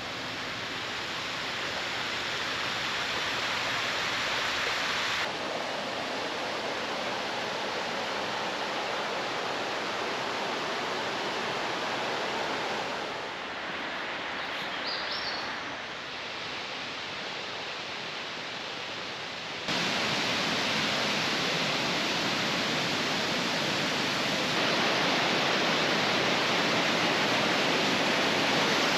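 Waterfall rushing water, a steady roar whose level and tone jump abruptly several times as the shots change. A brief high chirp comes about halfway through.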